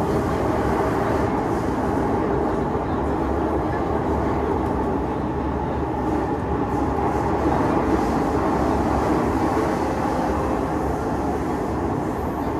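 Singapore MRT train heard from inside the carriage while running: a steady rumble and hum from the wheels on the track and the traction motors, easing slightly in loudness near the end.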